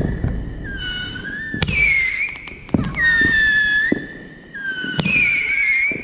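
Whistling fireworks going off one after another: a run of shrill whistles, each about a second long, with sharp pops and crackling between them.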